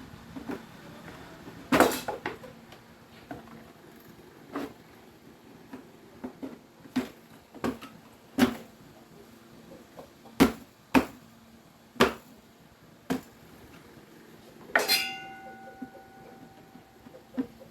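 Tools and parts being handled and set down during hand repair work: a dozen or so irregular knocks and clicks, and near the end one metallic clink that rings on for about two seconds.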